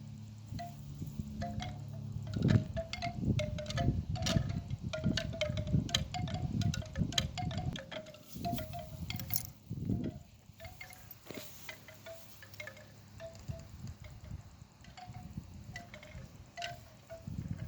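Wind chimes ringing in scattered, irregular strikes, with gusts of wind buffeting the microphone.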